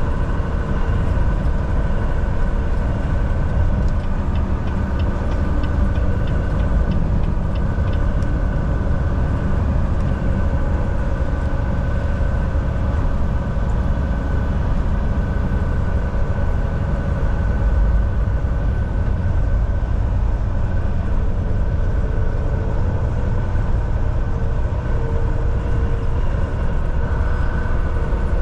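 Volvo VNL 760 semi truck cruising at highway speed: a steady, heavy low rumble of engine and road noise with a few constant tones running through it. A short run of faint, regular ticks comes a few seconds in.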